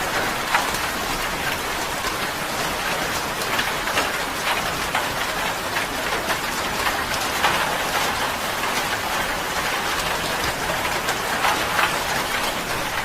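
Steady rain drumming on a tin roof, a dense patter of individual drops striking the metal.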